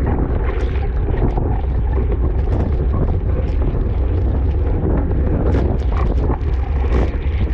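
Wind buffeting the microphone of a camera on a racing bicycle: a loud, steady low rumble with scattered crackles.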